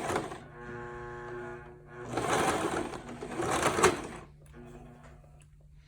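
Electric sewing machine stitching an appliqué patch, starting again right after pivoting at a corner. It runs in two spells: a steady motor whine, then a louder faster run with needle clatter that stops about four seconds in.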